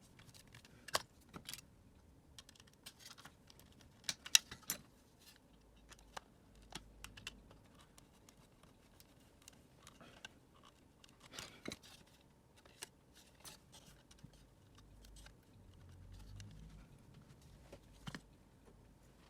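Scattered clicks, taps and scrapes of a Dyson vacuum cleaner's plastic parts and small tools being handled during disassembly, the loudest cluster about four seconds in.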